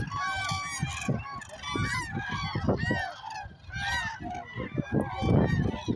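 A large flock of common cranes calling all at once, with geese among them: many overlapping trumpeting and honking calls with no pause. Under the calls runs an uneven low rumble, loudest about five seconds in.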